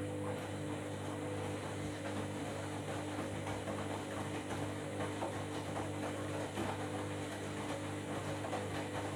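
Washing machine running, a steady motor hum under a continuous rattly, churning noise.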